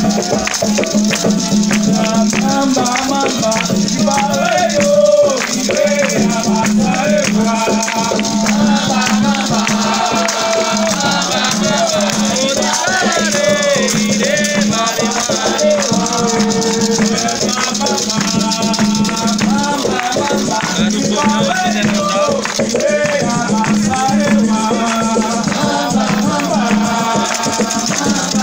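Voices singing an Afro-Brazilian Xangô ritual chant over continuous, rapid shaking of rattles.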